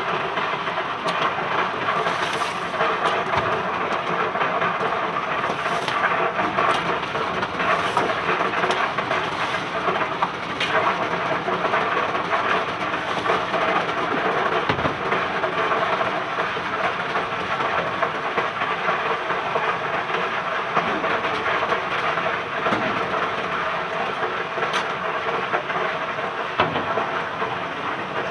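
Steady, dense clatter of cobblestones being unloaded from a barge, with scattered sharper knocks of individual stones.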